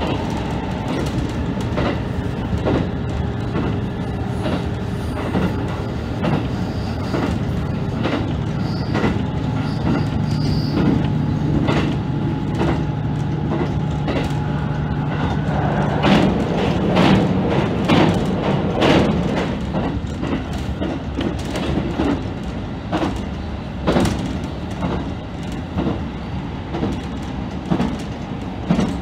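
KiHa 75 diesel railcar running at speed, heard from inside the front car: a steady engine and running hum with wheels clicking over rail joints, the clicks most frequent about two-thirds of the way through.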